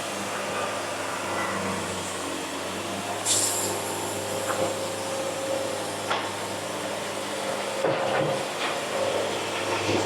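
A band sawmill running with a steady mechanical hum and hiss, with a few short knocks about three, six and eight seconds in.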